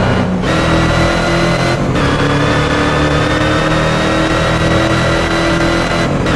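Bugatti Veyron Grand Sport Vitesse's quad-turbocharged W16 engine accelerating hard. Its pitch climbs steadily and drops briefly at each upshift: about half a second in, about two seconds in, and again near the end.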